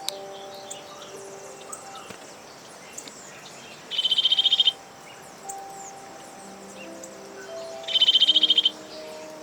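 A bird giving two short, loud, rapid trills about four seconds apart, over scattered faint bird chirps. Soft background music with slow held notes plays underneath.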